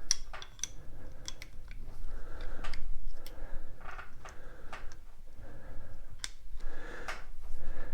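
Metal-on-metal clicks and scraping strokes from a Kent Moore main-bearing lapping tool being tightened and worked in a Harley-Davidson crankcase bearing race, repeating every half second to a second.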